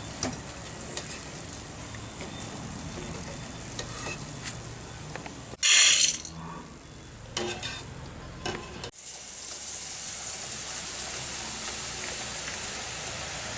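Kara boondi (gram-flour batter drops) frying in hot oil with a gentle sizzle; the bubbling has settled, the sign that the boondi is cooked through. A brief loud hiss comes about six seconds in, and a steadier, fuller sizzle runs from about nine seconds on.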